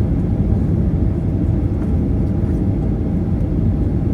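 Steady low rumble of a Boeing 737-800 airliner heard from inside the cabin, its engines and airflow running evenly in flight.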